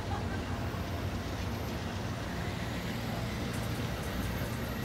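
A train's steady low rumble, even throughout with no horn or distinct clicks.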